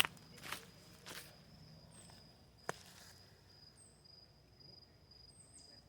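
A few faint footsteps in the first second, then a single sharp click, over an insect's steady high-pitched pulsing trill, with a few brief higher chirps.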